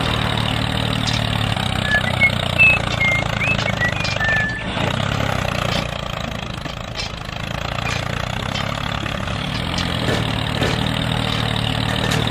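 An engine running steadily, a low, even hum, with a few short high chirps about two to four seconds in.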